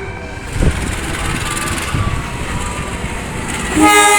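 Train horn sounding loudly near the end, a chord of several steady tones, over the steady rumble of a train, with a brief thump about half a second in.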